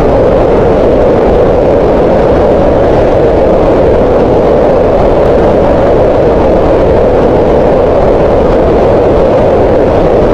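Green noise: a steady, even hiss centred in the middle of the hearing range, around 500 Hz, with no changes.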